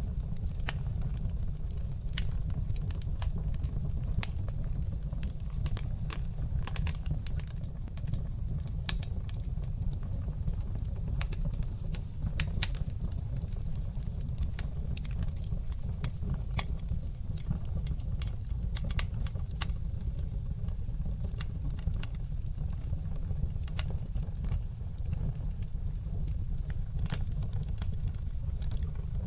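Wood fire in a fireplace, crackling with frequent irregular sharp pops over a steady low rumble.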